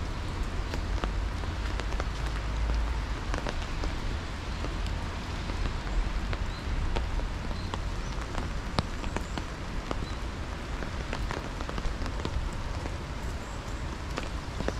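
Steady rain falling, with many sharp individual raindrop ticks striking close by over a low rumble.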